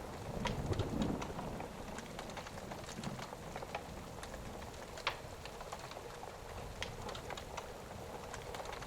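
Thunderstorm ambience: steady rain with scattered sharp crackles and pops from a wood fire, and a low rumble of thunder in the first second or so.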